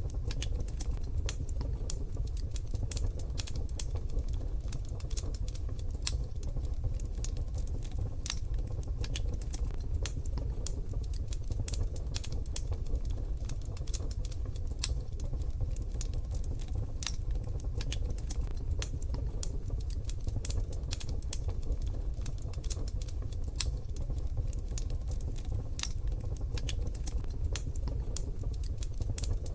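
Wood fire burning in a wood-burning stove, crackling with frequent irregular sharp pops and snaps over a steady low rumble.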